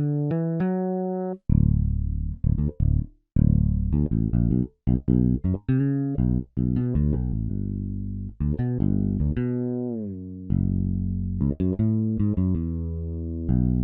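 Sampled fretless electric bass (Toontrack EZbass Fretless expansion) playing a MIDI bass-line pattern: plucked notes with short gaps between them, and a few notes sliding in pitch, most clearly around nine seconds in.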